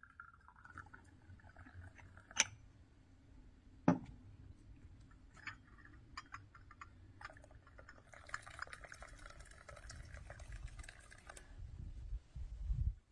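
Liquid being poured, a hiss lasting a few seconds in the second half, amid scattered clicks and two sharp knocks in the first four seconds; a low rumble near the end.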